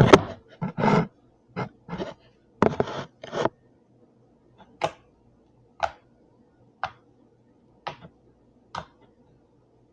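Slime being played with by hand for ASMR: a quick run of short squishing and popping sounds in the first few seconds, then single short pops about once a second.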